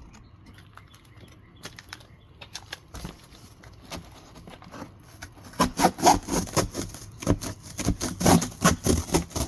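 Serrated Canary stainless cardboard knife sawing through corrugated cardboard: faint handling clicks, then about halfway through a quick run of loud scraping strokes, three or four a second.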